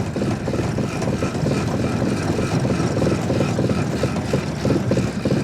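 Small all-wheel-drive vehicle's engine running hard under load, with a dense rapid pulsing, as its tractor-track-shoe wheels churn for grip in snow. The revs surge up and down without the driver working the throttle.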